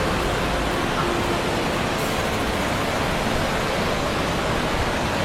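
Floodwater rushing: a steady, dense noise of water that holds an even level throughout.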